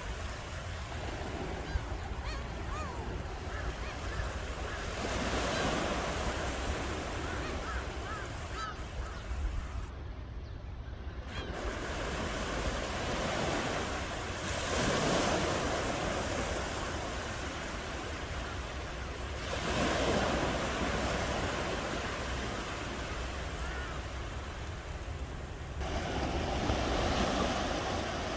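Ocean waves washing onto a shore, the surf swelling and falling back four times, about every five to six seconds, over a steady low rumble.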